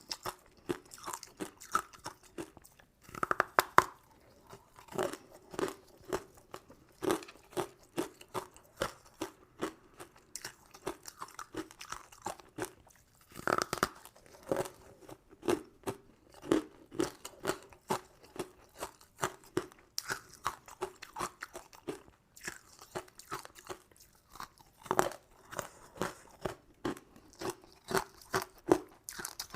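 Close-miked chewing of crunchy, sugar-crusted sweets, with short wet crunches about twice a second and a few louder crunching bites spaced about ten seconds apart.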